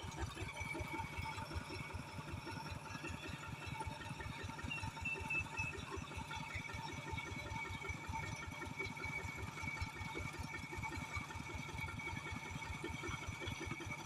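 An engine running steadily and fairly faintly, with a fast, even chugging pulse.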